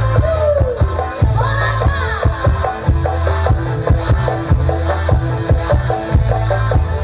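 Music played loud through sound-system speakers and a subwoofer, with a heavy bass line and a steady, busy beat. A gliding melodic line comes in briefly near the start.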